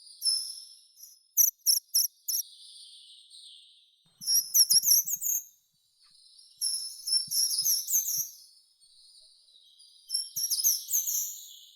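Songbirds singing in short, high-pitched phrases of quick sweeping notes separated by pauses of a second or two, with a few sharp clicking notes about a second and a half in.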